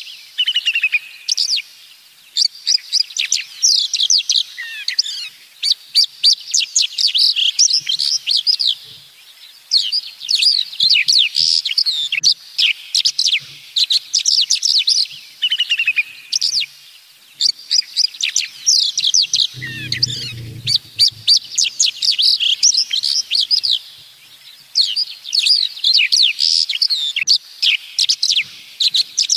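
Birds chirping and trilling in quick, high phrases with short pauses between them; a falling whistled note recurs a few times. A short low rumble sounds about twenty seconds in.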